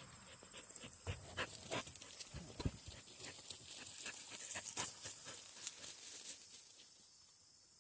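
Dog panting, with scattered short clicks and rustles that die away about six and a half seconds in.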